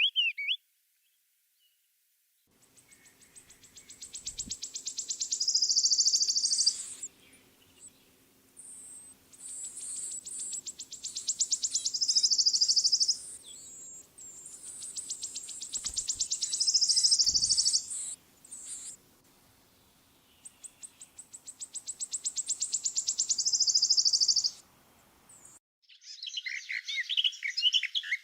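A songbird singing in a spring woodland, repeating the same high, rapid trilled phrase four times, each phrase about four seconds long and getting louder towards its end. A different bird's jumbled song starts near the end.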